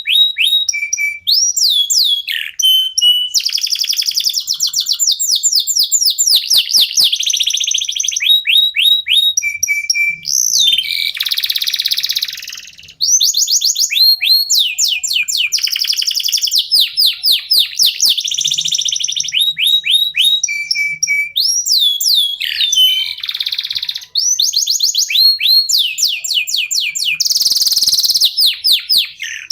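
Domestic canaries (local Indonesian canaries) singing continuously: fast trills of repeated sweeping notes, broken by harsh buzzy rolls about eleven seconds in and again near the end.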